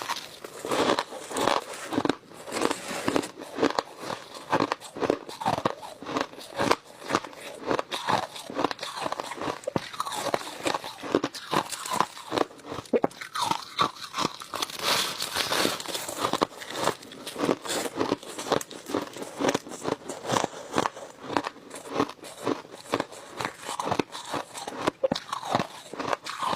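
Close-miked crunching of crushed ice being chewed, a rapid irregular run of crisp cracks and crackles.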